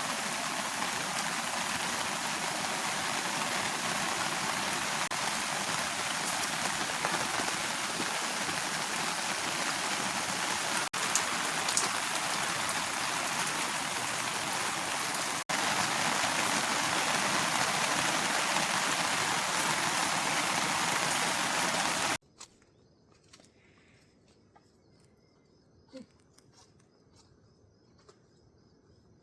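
Steady rain, an even hiss that gets a little louder about halfway through. It cuts off abruptly near the end, leaving quiet with a few faint clicks.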